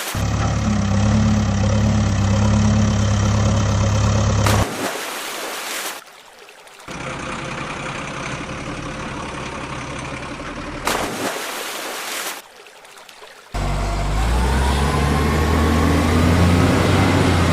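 Heavy vehicle engine sounds, cut together in blocks that start and stop abruptly. A low, steady engine hum runs for the first few seconds. Noisier engine stretches follow, and near the end an engine runs with a slowly rising whine.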